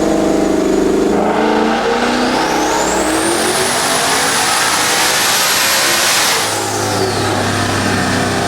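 Twin-turbo Coyote 5.0 V8 of an S650 Mustang making a full-throttle pull on a chassis dyno at about 20 psi of boost, its turbos' mesh inlet covers removed. A high turbo whine rises about two seconds in and holds. At about six and a half seconds the whine falls away as the throttle closes, and the engine drops back to a low steady run.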